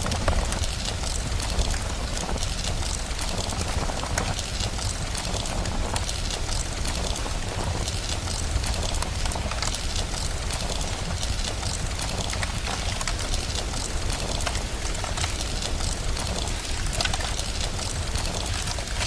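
Rain and crackling fireplace ambience: a steady hiss of rain over a continuous low rumble, with many small crackles.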